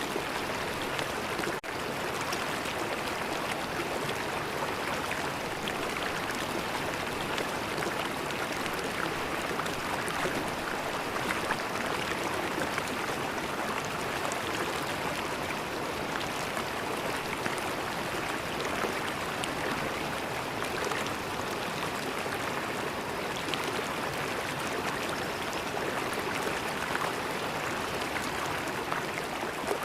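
River water flowing steadily, a continuous even rush, with one brief break in the sound about a second and a half in.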